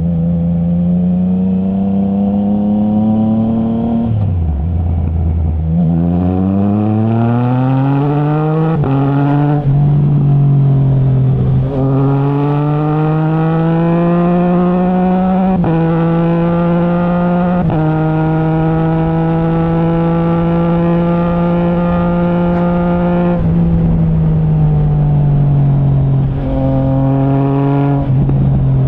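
Triumph Trident 660's three-cylinder engine through a Zard stainless full exhaust with the baffle removed, heard from the rider's seat: it pulls up through the revs with several quick clutchless upshifts from the quickshifter, each a sudden small drop in pitch, holds a steady note, then eases off and accelerates again near the end.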